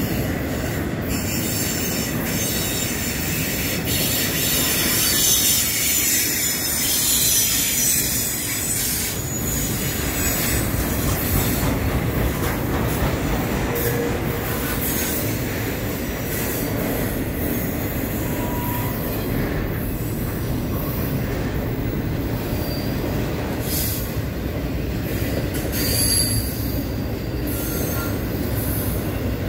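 Intermodal freight cars rolling past on a curve: a steady rumble of steel wheels on rail, with high-pitched wheel squeal from the flanges grinding through the curve.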